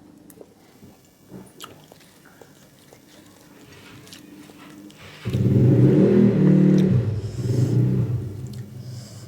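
Close-up eating sounds: faint clicks of chewing and biting. About five seconds in, a loud low hum with a few steady pitched layers starts suddenly, lasts about three seconds and fades.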